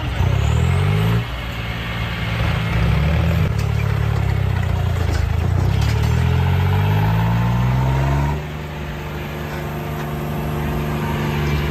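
Tractor's diesel engine revving. A brief rise at the start is followed by a longer climb in pitch lasting several seconds, then it drops back suddenly about two-thirds of the way through to a steady, lower running speed.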